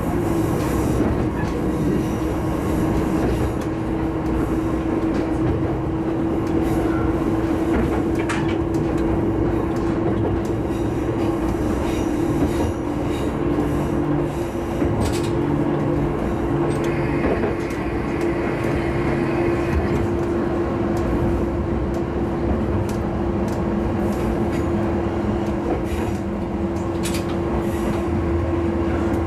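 Diesel railcar running along the line: a steady engine and drive hum over the rumble of wheels on rail, with scattered sharp clicks from the track.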